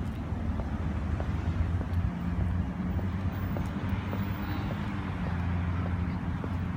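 A motor vehicle's engine running steadily, a low, even drone.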